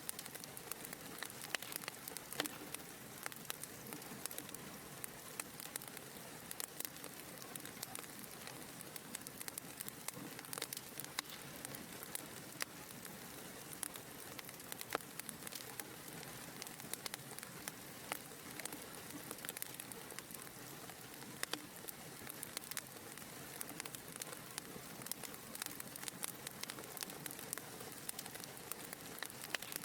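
Wood fire burning in a fireplace: a steady soft hiss of flames with frequent small sharp crackles and pops.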